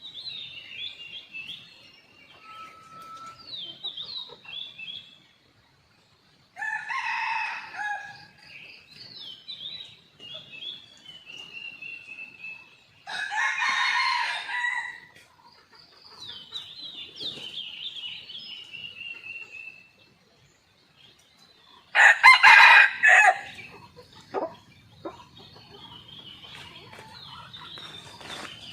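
Junglefowl roosters crowing three times, each crow short and loud, with smaller birds chirping in between.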